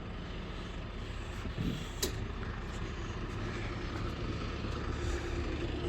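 Steady low hum of idling vehicle engines, with a single sharp click about two seconds in.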